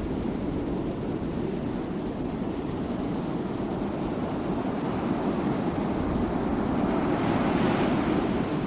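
Sea waves surging and washing in, a steady rush of surf that swells a little near the end.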